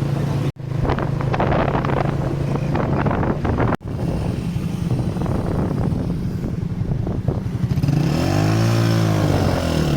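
Motorcycle engine running while riding on the road, with traffic noise. Near the end the engine pitch rises and falls once.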